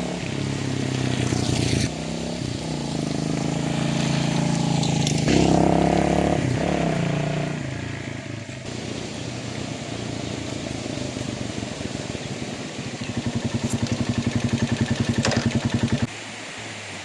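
Motorbike engine running under way, its pitch rising and falling with the revs, with wind and road noise. Near the end it settles into a fast low putter that cuts off suddenly about a second before the end.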